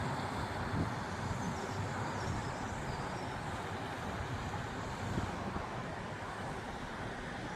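Steady outdoor background noise: a low, uneven rumble under an even hiss.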